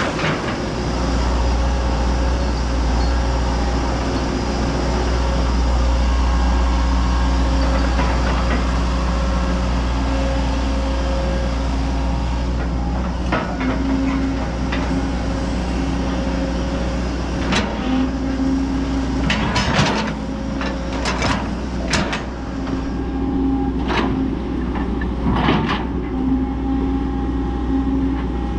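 Heavy construction machine's diesel engine running steadily under load, with a deep rumble and a held drone whose pitch shifts now and then. From about halfway, a series of sharp metallic clanks and knocks.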